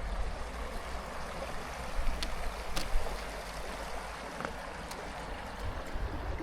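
Steady rush of a waterfall's water running beneath the ice, over a low rumble, with a few faint clicks in the middle.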